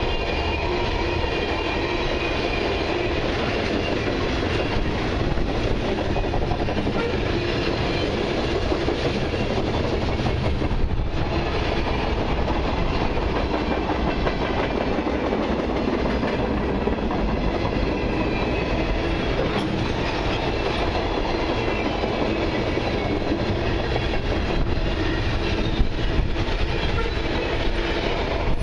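Freight cars of a long mixed train rolling past steadily on the near track: tank cars, then centerbeam flatcars and gondolas, their wheels running over the rails at a constant, loud level.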